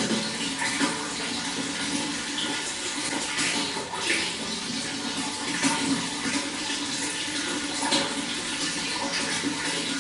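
Running water flowing steadily, with many small irregular splashes.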